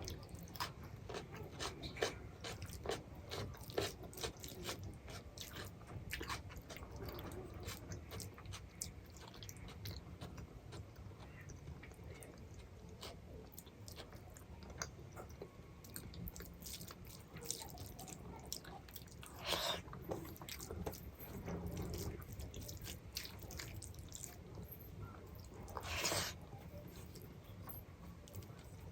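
A person chewing and eating a rice-and-dal meal close to the microphone, with frequent wet mouth clicks and smacks. Two longer, louder eating noises come about two-thirds of the way through and again near the end.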